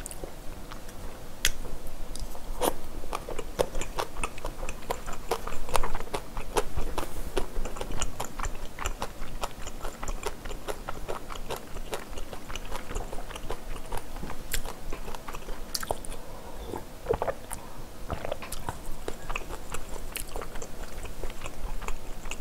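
A person chewing a mouthful of food close to the microphone, with many small wet clicks and crunches.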